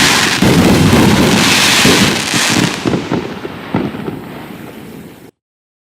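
Consumer fireworks cake going off: a dense run of overlapping bursts and crackle, thinning after about three seconds to a few scattered, fading reports. The sound then cuts off abruptly.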